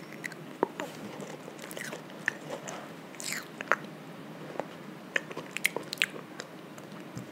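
A child biting into and chewing a soft Froot Loops mini donut close to a microphone: wet mouth clicks and smacks, scattered irregularly throughout.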